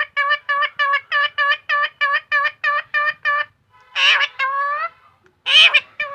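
Parrot calling: a fast run of short, identical pitched notes, about four a second, then two longer, harsher squawks, the second the louder.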